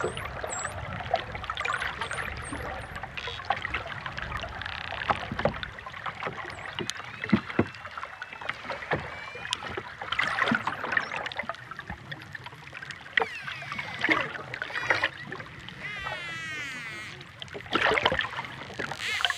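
Water lapping at the shore with many scattered sharp knocks and clicks throughout.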